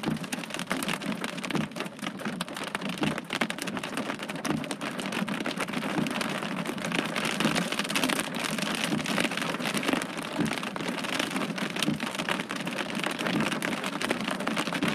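Heavy thunderstorm rain with big raindrops hitting a hard surface: a dense, steady stream of close-spaced drop impacts.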